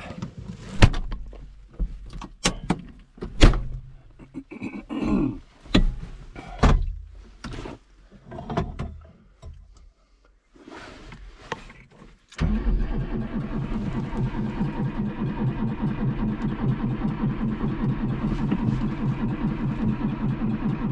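Scattered knocks and clunks, then about twelve seconds in the John Deere 3140 tractor's diesel engine starts suddenly and runs steadily with a fast, even beat. The engine is cold and hard to start.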